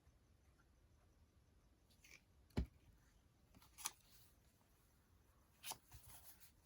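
Near silence broken by three faint, short taps or clicks, about two and a half, four and five and a half seconds in: paper and journal materials being handled.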